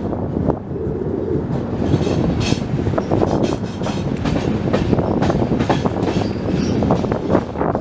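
Swaraj Express passenger train running at speed, a steady rumble with the wheels clattering rapidly on the track.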